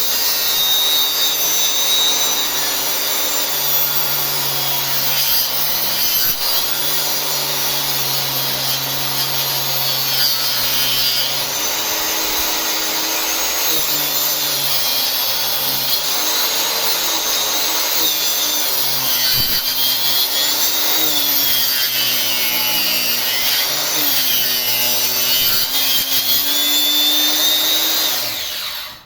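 Two-stroke chainsaw running under load, cutting into a wooden stump, its engine pitch dipping and recovering as the chain bites. The sound cuts off suddenly near the end.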